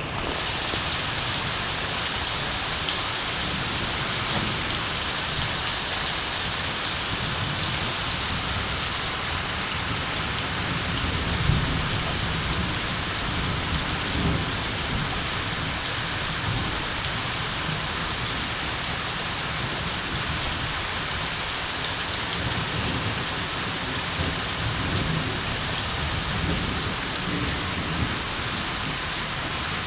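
Steady rain falling, with distant thunder rumbling low now and then: once around the middle and again near the end.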